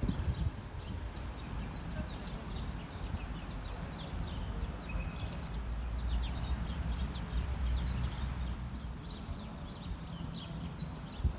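A flock of small birds chirping, many short high calls overlapping without pause, over a low steady rumble.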